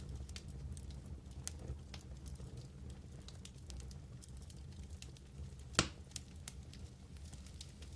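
Wood fire burning in a fireplace: a steady low rumble of flames with scattered crackles and snaps, and one louder pop about six seconds in.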